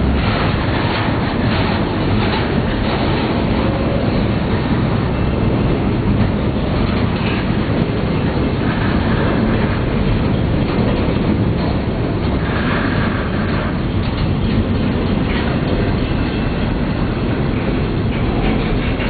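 A freight train rolling past, its cars and wheels making a loud, steady, continuous noise.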